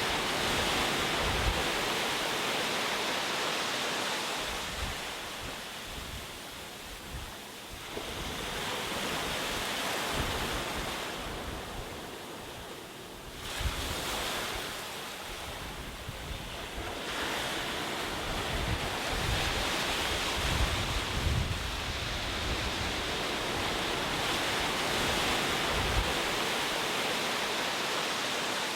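Ocean waves washing onto a shore in slow swells, with low rumbles of wind on the microphone.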